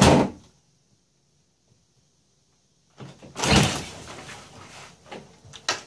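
Bathroom door moving and shutting with a thud. A stretch of dead silence follows, then more door noise about three and a half seconds in, and a sharp knock near the end.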